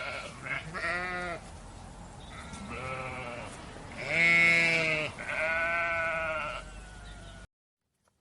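A run of about five bleats from sheep or goat-type livestock, each a wavering pitched call of half a second to over a second. The loudest comes about four seconds in. The calls stop abruptly about seven and a half seconds in.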